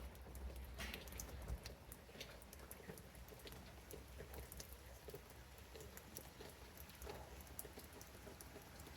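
Light rain: scattered raindrops falling as faint, irregular soft ticks, over a faint low rumble.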